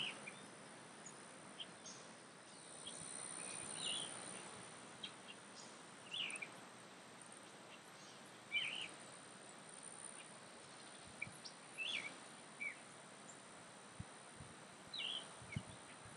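Faint outdoor ambience: short, falling bird chirps every second or two over a steady high-pitched insect drone.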